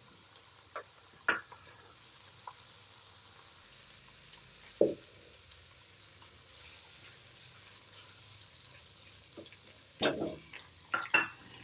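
Diced chicken and vegetables frying in oil in a wok, a faint sizzle, with scattered taps and scrapes of a silicone spatula stirring them, the loudest about five seconds in and a cluster near the end.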